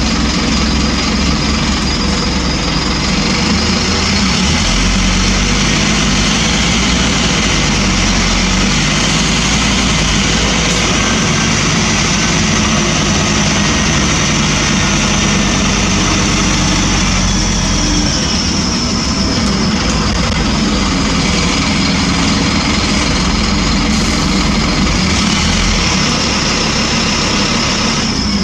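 Scania N230UB single-decker bus with its five-cylinder diesel running, a steady heavy drone with a thin high whine above it.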